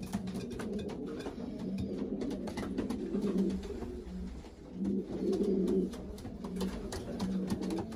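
Several racing pigeons cooing, the deep, pulsing coos overlapping, with louder bouts about three seconds in and again around five to six seconds in, and scattered clicks and scuffles throughout. This is loft cooing typical of pigeons being paired up for breeding.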